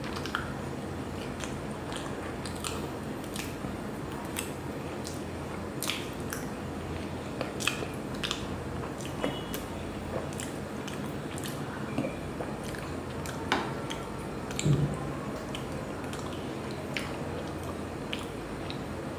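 Close-miked chewing of soft chocolate cake: wet mouth and lip smacks and scattered small clicks, with one louder squelch about fifteen seconds in. A faint steady low hum sits underneath.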